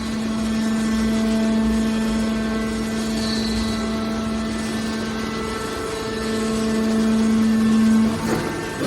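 Hydraulic scrap baler's power unit running with a steady hum, its electric motor and hydraulic pump holding one pitch; it grows louder in the second half and eases off near the end.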